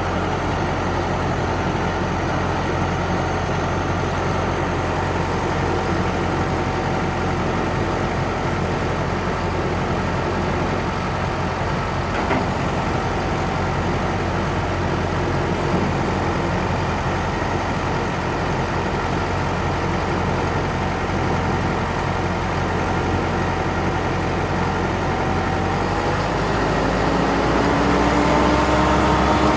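Case IH Vestrum 130 tractor's four-cylinder diesel engine idling steadily, then revving up near the end, its pitch rising.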